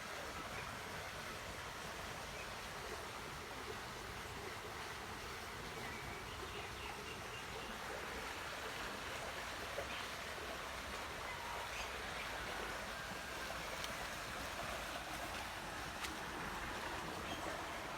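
Steady outdoor hiss, like wind or running water, with a few faint short chirps and light clicks.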